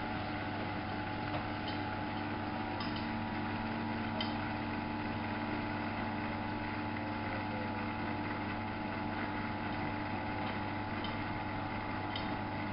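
Miele Novo Super W933 washing machine running with a steady motor hum made of several steady tones, and a few faint clicks now and then.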